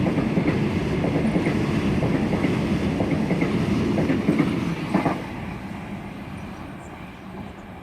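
Sydney Trains Waratah electric train (A set) running through the station without stopping, its wheels clacking over the rail joints. The noise is loud and steady, then dies away steadily after about five seconds.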